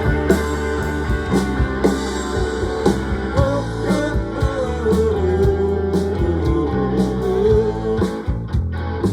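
Rock band playing an instrumental break: a guitar lead line sliding and bending in pitch over steady bass and drums.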